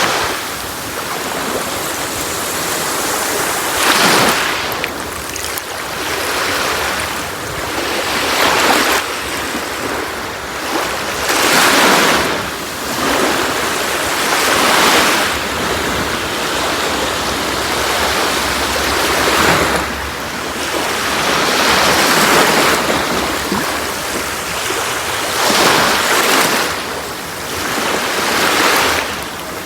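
Sea waves breaking and washing onto a beach, a swell rising and falling every three to four seconds.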